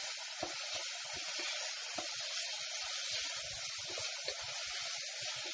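Onions, green chillies and garlic sizzling in hot oil in an aluminium pressure cooker: a steady hiss with many small crackles and light scrapes as a wooden spatula stirs them.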